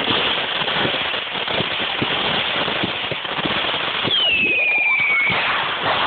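Consumer fireworks going off: dense rapid crackling over a steady hiss. A whistle sweeps downward in pitch about four seconds in and lasts just over a second.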